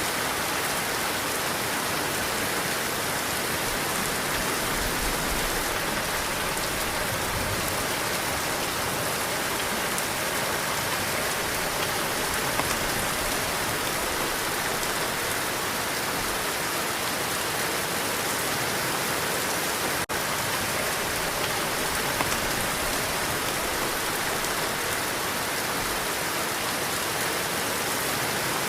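Heavy rain falling in a steady, dense hiss, with a momentary dip in level about twenty seconds in.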